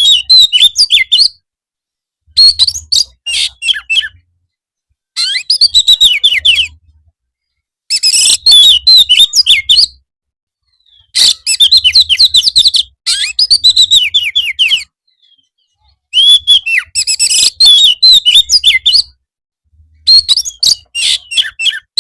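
Oriental magpie-robin (kacer) singing in full song: loud bursts of rapid whistled and chattering notes, each phrase a couple of seconds long, broken by short, abrupt silences.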